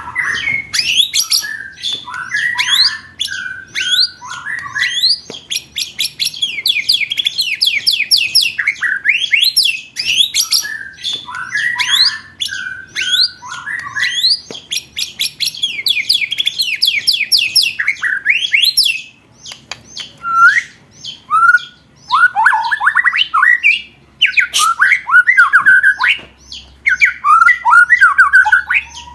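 Recorded songbird song used to train competition birds: long, rapid-fire rolls of quickly repeated sweeping notes alternating with lower rattling, chattering phrases, with a few brief pauses in the second half.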